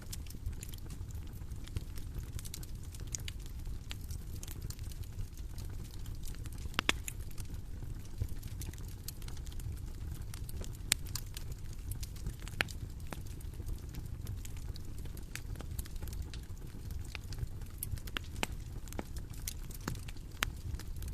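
Bonfire crackling: irregular sharp pops and snaps, a few louder than the rest, over a steady low rumble of burning.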